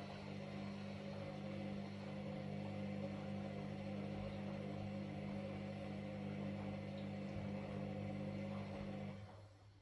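Washing machine running with a steady motor hum and a wash of noise over it, dying away near the end as the machine stops.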